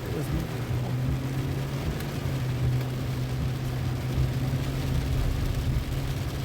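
Inside a car driving through heavy rain: a steady engine and road hum settles in about half a second in, under an even hiss of rain on the car.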